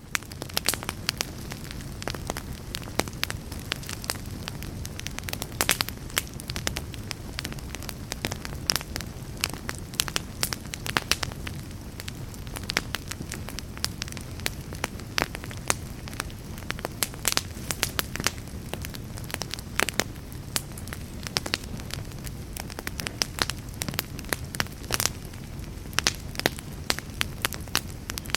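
Fireplace fire crackling steadily: frequent irregular sharp pops and snaps over a low, even rumble of the flames.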